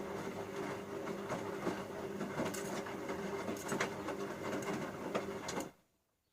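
Bauknecht GreenIntelligence Super Eco 6413 washing machine turning its drum in the wash phase: a steady motor hum with laundry and water knocking and sloshing inside. It stops suddenly near the end as the drum pauses.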